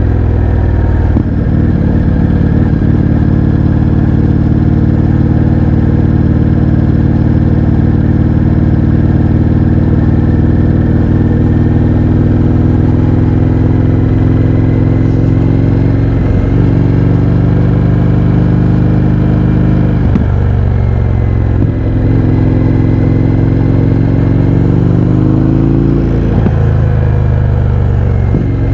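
Indian FTR 1200's V-twin running through an Akrapovič exhaust with the baffles removed, at a steady riding pace. The engine pitch dips a few times, and near the end it climbs and then drops sharply.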